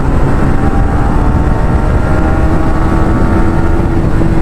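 KTM Duke 390 single-cylinder engine and aftermarket loud exhaust running under way, its note climbing gradually as the bike accelerates, with heavy wind rush on the camera microphone.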